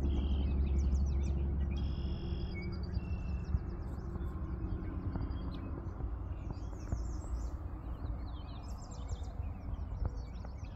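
Birds chirping and calling around a calm lake, with repeated short chirps and a few held notes, over a low steady hum that fades over the first few seconds.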